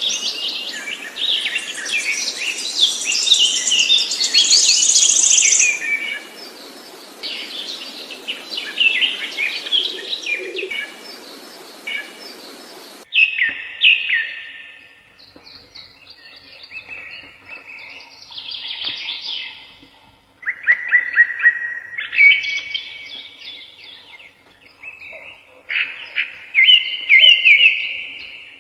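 Songbirds singing: dense, overlapping high chirps over a background hiss for about the first half, then, after an abrupt change to a cleaner recording, separate repeated song phrases with gaps between them.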